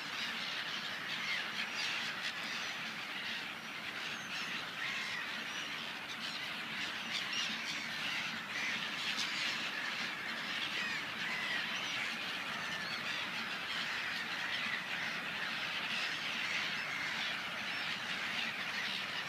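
A large flock of seagulls calling all at once: a dense, unbroken chorus of many overlapping short squawks.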